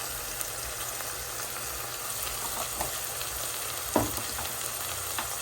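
Oil sizzling steadily in a frying pan full of chopped vegetables and seasonings, with a single sharp knock about four seconds in.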